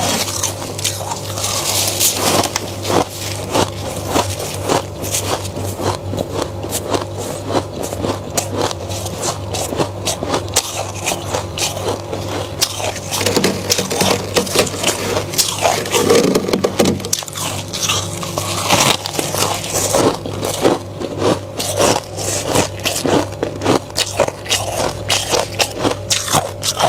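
Flaky freezer frost being scraped and crunched close up: dense, rapid crackling and scraping clicks, over a steady low hum.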